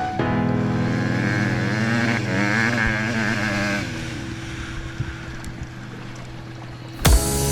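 Honda CRF150 dirt bike's single-cylinder four-stroke engine revving up and down as it is ridden, then dropping back after about four seconds. Music cuts in loudly near the end.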